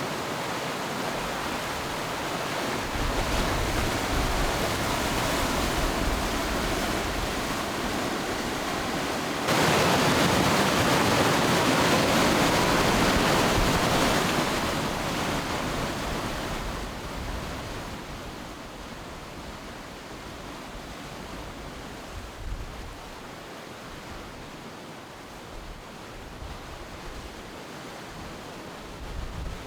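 Rapids of the Matanuska River rushing at high flow: a steady, dense roar of water. It gets suddenly louder about ten seconds in, then falls back and is quieter through the second half.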